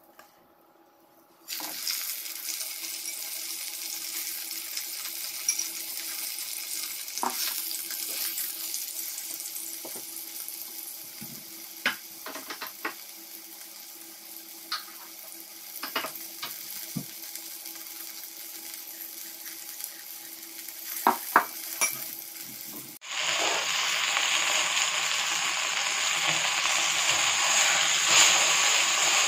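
Flour-coated chicken pan-frying in oil: a steady sizzle with scattered sharp pops and clicks, which becomes louder and fuller about three-quarters of the way through.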